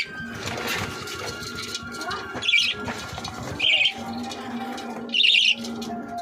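Small birds calling: three short, high calls about a second or more apart, the last one a little longer, over a quieter continuous background.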